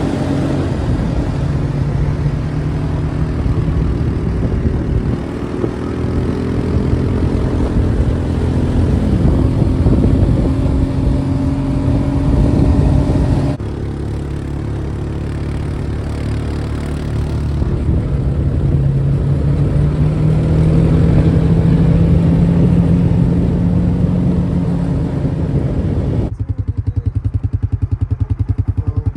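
Vehicle engine running and revving, its pitch rising and falling, broken by two abrupt cuts. After the second cut, about three-quarters of the way through, it settles into a steady, fast, even pulsing.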